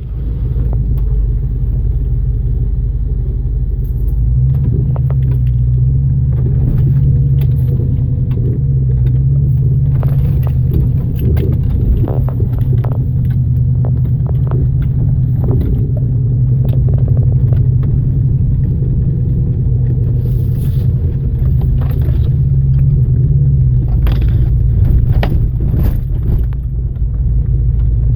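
Off-road vehicle driving over a rough trail: a steady low rumble of engine and tyres, with frequent knocks and rattles as it bounces over bumps.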